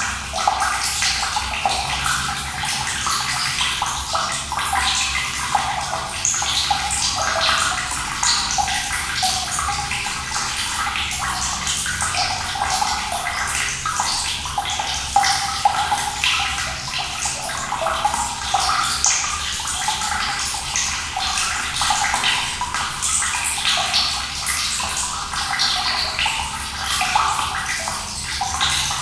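Running water pouring and splashing steadily, with the bright, close sound of a flowing stream of cold water.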